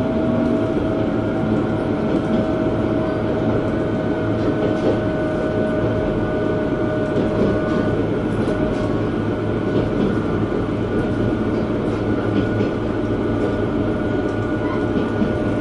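KiHa 120 diesel railcar running along the line, heard from inside the passenger cabin: steady engine and wheel-on-rail noise with a few held tones that stay even, the level not changing.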